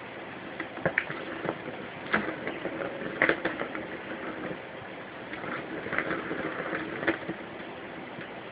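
Scattered scratches and light knocks, as of a kitten pouncing and clawing in play, over a steady low hum; the knocks thin out near the end.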